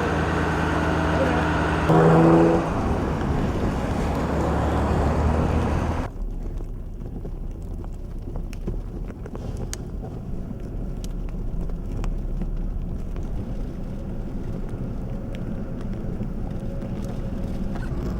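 Vehicle engine running steadily near a roadway, with a brief louder tone about two seconds in. About six seconds in the sound cuts to a quieter, steady low rumble of traffic and wind with faint scattered clicks.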